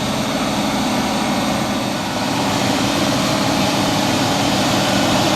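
Heavy vehicle engine running steadily under a broad rushing noise, getting slightly louder over the last few seconds.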